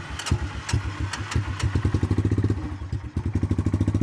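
Cold engine firing unevenly and sputtering, then catching a little after three seconds in and settling into a steady, even idle.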